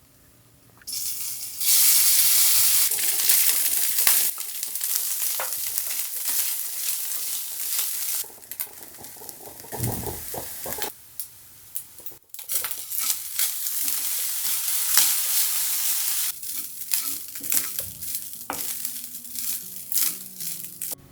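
Food frying in hot oil in a pan: a loud sizzle breaks out about a second in and slowly settles, then stops. After a break, a second stretch of sizzling follows, and near the end it gives way to scattered clicks and scrapes of stirring.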